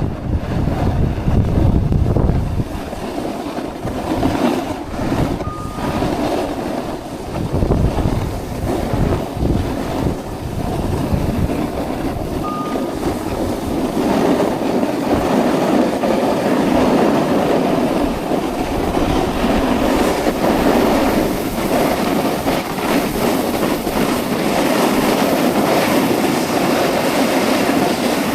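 Snowboard sliding and scraping over snow, a continuous rough rumble, with wind buffeting the microphone, heaviest in the first few seconds.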